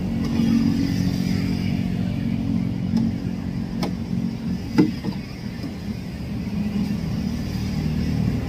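Vehicle engine running steadily at idle, with a few light clicks about three to five seconds in.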